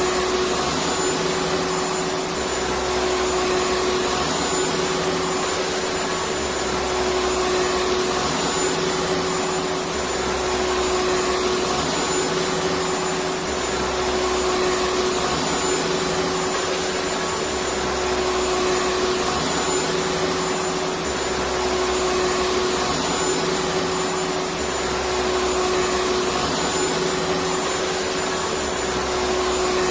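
Vacuum cleaner running steadily: a continuous rush of air with a steady motor whine, and a low rumble that swells and eases every few seconds.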